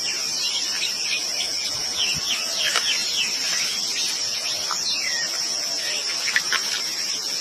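Steady, high-pitched insect drone throughout, with many short bird chirps and quick whistles scattered over it.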